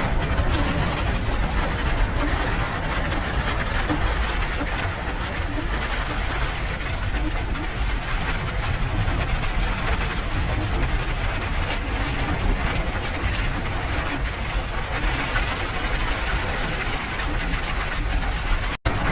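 Steady rain noise with a deep rumble underneath, cutting out for an instant near the end.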